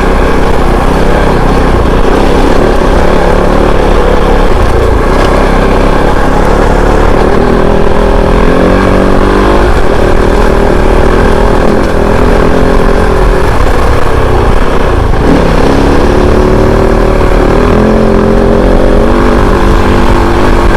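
Kove 450 Rally's single-cylinder engine running under way, its pitch rising and falling with the throttle.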